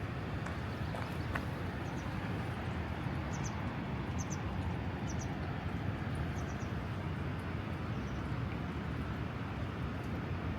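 Steady rush of snowmelt-swollen mountain water. A small bird repeats short, high double chirps over it every second or so through the middle of the stretch.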